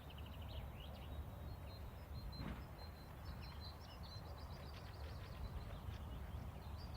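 Faint chirping and short trills of small birds over a low, steady outdoor rumble.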